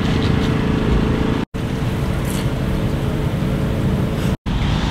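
A motor vehicle's engine running with a heavy, low rumble. The sound cuts out abruptly twice, about a second and a half in and again near the end.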